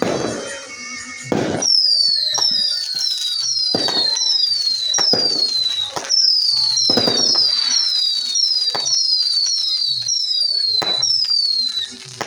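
Fireworks going off: a rapid run of high whistles, about two a second, each falling in pitch, mixed with sharp bangs. The whistling stops just before the end.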